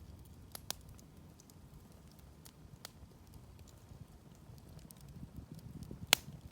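Wood campfire crackling, with scattered sharp pops and snaps over a low, steady noise. The loudest pop comes about six seconds in.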